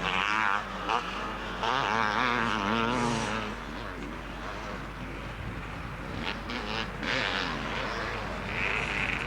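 Motocross motorcycles racing, their engines revving up and down in quick wavering swells as they ride the course.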